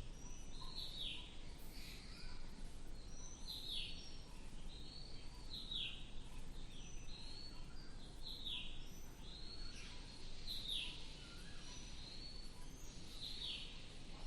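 Birds calling: short chirps, each falling in pitch, repeated about once a second, with several voices overlapping.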